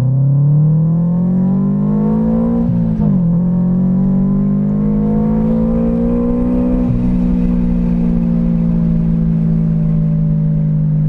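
Supercharged Subaru BRZ's 2.0-litre flat-four, with a catless header and single-exit exhaust, under hard acceleration from inside the cabin. The revs climb, drop at an upshift about three seconds in, and climb again through the next gear. They then dip slightly about seven seconds in and hold fairly steady.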